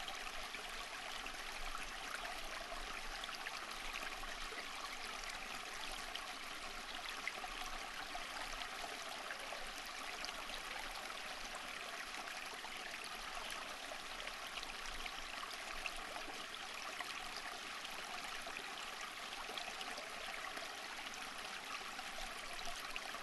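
Flowing stream water, a steady babbling rush with fine splashing detail.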